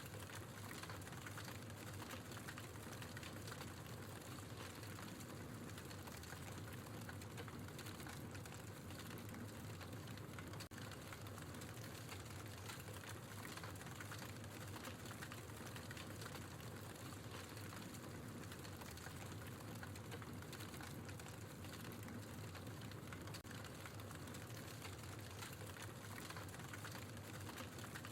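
Wood logs burning in a fireplace, crackling with a steady stream of small, fast pops and ticks over a low rushing hiss.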